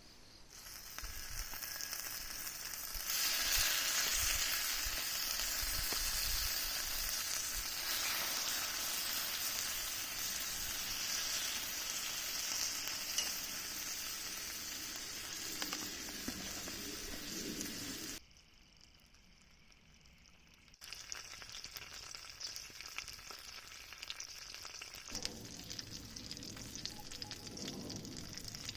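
Food sizzling on a hot grill, a dense steady frying hiss. It drops out suddenly about two-thirds of the way through, then resumes more softly a couple of seconds later.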